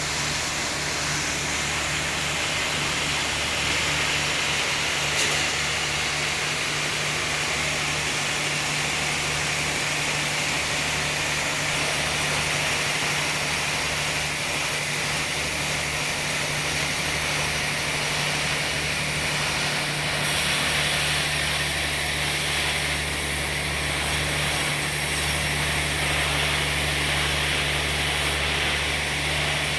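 Sawmill machinery running steadily, a constant motor hum with a hiss above it and no pauses.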